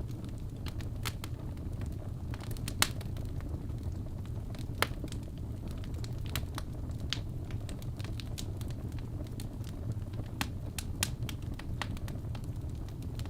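Wood fire burning in a fireplace: irregular sharp crackles and pops over a steady low rumble of the flames, with two louder pops about 3 and 5 seconds in.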